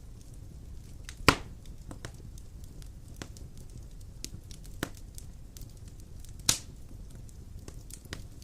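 Large logs burning in a stone fireplace: a steady low rumble of flames with scattered crackles and two loud pops, about a second in and about six and a half seconds in.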